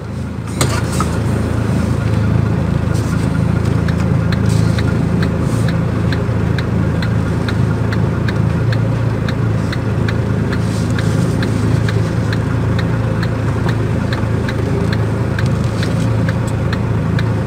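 Truck's diesel engine running steadily, heard from inside the cab, with a regular click about twice a second, like a turn-signal relay ticking.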